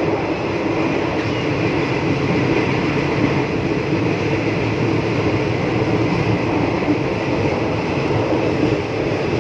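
Steady running noise of a moving passenger train heard from inside the carriage: an even rumble and rattle of the carriage and wheels on the rails.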